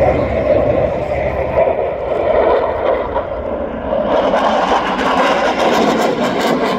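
Aircraft engine noise of a plane flying by, a steady roar that grows brighter and fuller about four seconds in.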